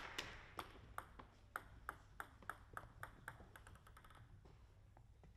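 Plastic table tennis ball bouncing repeatedly, faint and about three bounces a second, ending in a quick run of small bounces about four seconds in as it comes to rest.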